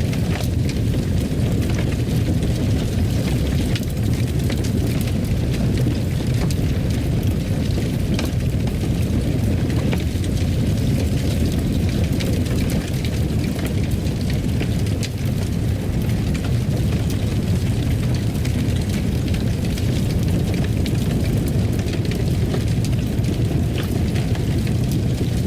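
Fire burning in a fireplace: a steady low roar with scattered faint crackles.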